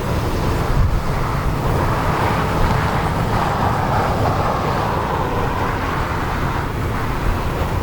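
Steady aircraft engine noise with a low rumble, its rushing sound swelling in the middle and easing off toward the end.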